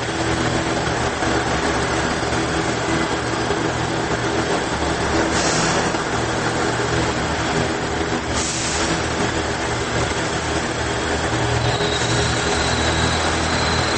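Diesel railcar running, heard from inside the passenger car: a steady engine hum and rolling noise. Two short hisses come about five and eight seconds in, and a faint high whine joins near the end.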